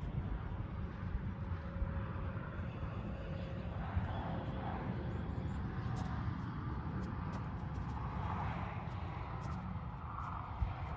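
Outdoor ambience: a steady low rumble with faint scattered ticks.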